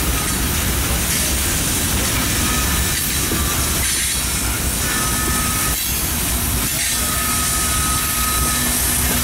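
Loaded coal hopper cars of a freight train rolling steadily past: a constant rumble of wheels on rail, with thin high wheel-squeal tones coming and going.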